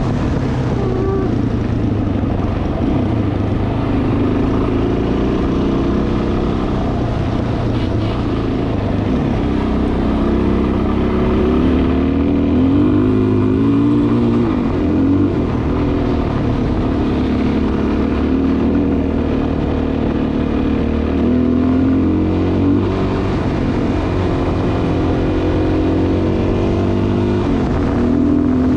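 Dual-sport motorcycle engine running under way, its revs rising and falling again and again with the throttle.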